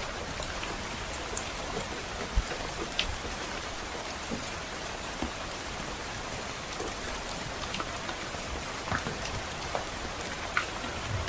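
Steady soft rain hiss, with scattered sharp crackles and pops from a wood fire in a fireplace.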